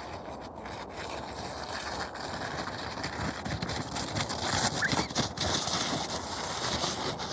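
Snow crunching and hissing under movement, with a rough noise that grows louder from about two seconds in and irregular crunches through it.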